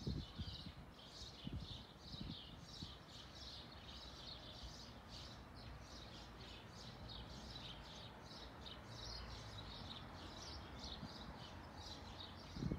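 A small bird chirping over and over, short high chirps about three a second, with a faint outdoor background and a few soft low thumps near the start and near the end.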